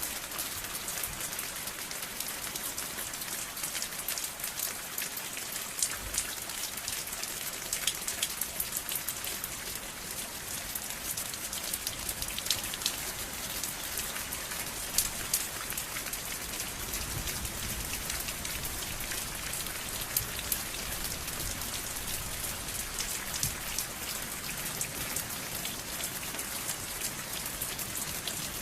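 Steady rain falling, a constant hiss with many individual drops pattering and ticking on a hard surface.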